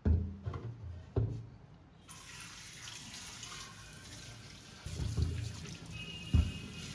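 Kitchen tap turned on about two seconds in and running steadily, with a few knocks as a clay pot is handled at the sink.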